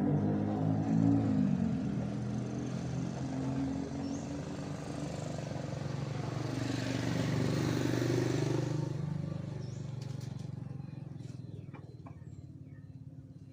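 Motor vehicle engines running in passing traffic. One engine's hum fades over the first few seconds, another vehicle swells and passes about seven to eight seconds in, and the sound dies down toward the end.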